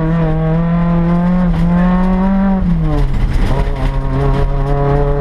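Rally car engine heard from inside the cabin, pulling hard with the revs slowly climbing. The revs drop sharply a little past halfway, then build again.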